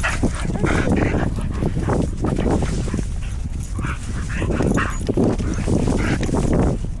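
Dogs barking several times, with wind buffeting the microphone.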